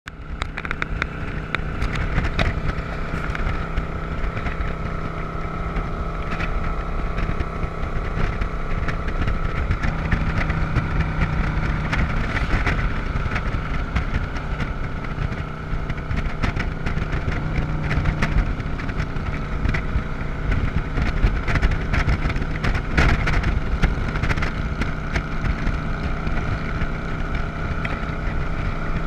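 Motorcycle engine running at a steady cruising speed while riding, with wind buffeting the microphone.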